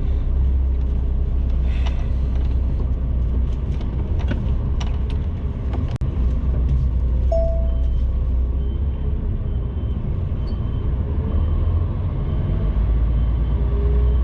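HGV truck's diesel engine running steadily, heard from inside the cab, as the truck starts to reverse. There are a few clicks in the first half, and a faint high beep repeats about once a second through the second half.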